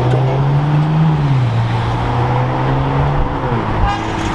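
Car engine running at low, steady revs: a droning note that rises a little about a second in, settles back and holds, then fades near the end.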